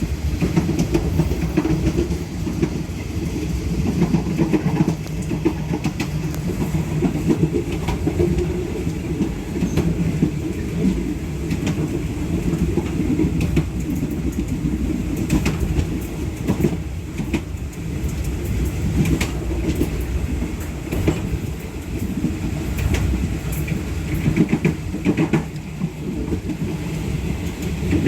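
Passenger train carriage running along the line, heard from the rear of the last car: a steady low rumble with irregular clicks and clacks of the wheels passing over the rails.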